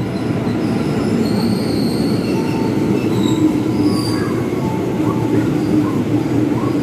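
KRL Commuter Line electric train running along the platform: a steady rumble of wheels on rail with brief high-pitched wheel squeals scattered through it.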